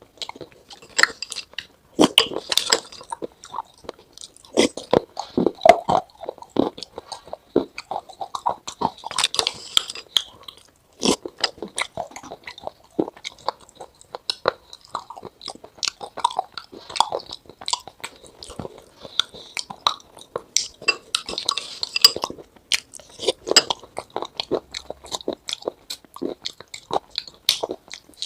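Close-up crunching and chewing: a dense, irregular run of sharp crackly clicks.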